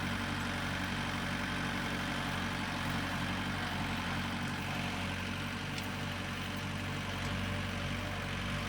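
Farm tractor engine running steadily at low speed as the tractor drives slowly across the yard.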